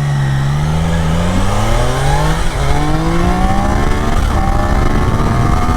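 Triumph Daytona 660's inline three-cylinder engine accelerating under load, revs climbing through the gears with two upshifts, about two and a half and four and a half seconds in, where the pitch drops and starts rising again.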